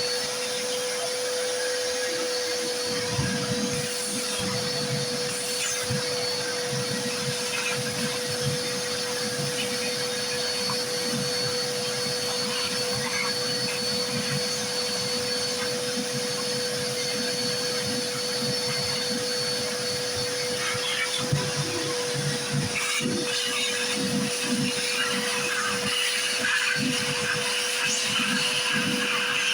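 Vacuum cleaner running steadily with a constant motor whine and rushing air, sucking up mouse-nest debris.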